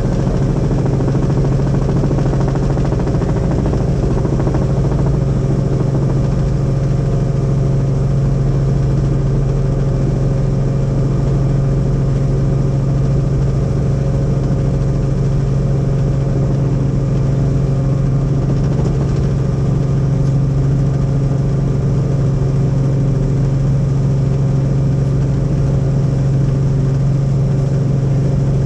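Helicopter in flight: a loud, steady drone with a strong low hum and fainter steady tones above it, unchanging throughout.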